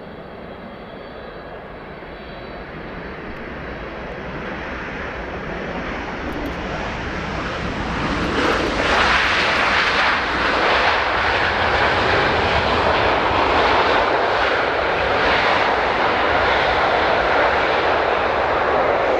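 Four-engined Boeing 747-400F jet freighter growing steadily louder as it comes in to land. About eight seconds in it reaches a loud, steady jet rush that holds.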